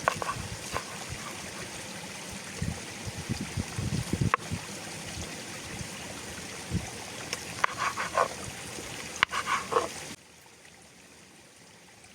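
A stream trickling steadily, with a few knocks and a sharp click, and two short bursts of pitched calls about eight and nine and a half seconds in. The sound drops off abruptly about ten seconds in.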